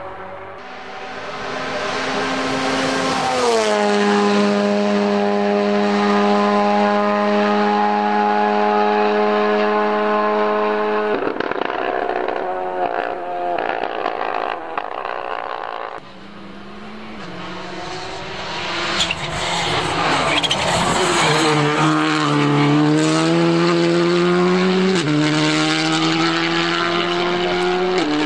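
Rally car engines at full throttle. The first car's engine climbs in pitch and then holds a steady high pitch flat out for several seconds. After an abrupt change about sixteen seconds in, a second car accelerates hard, its pitch rising in steps through several gear changes.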